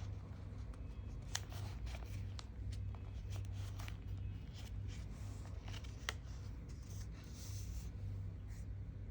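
A sheet of paper being folded and creased by hand: scattered crinkles and sharp rustles, with a longer rustle near the end, over a steady low hum.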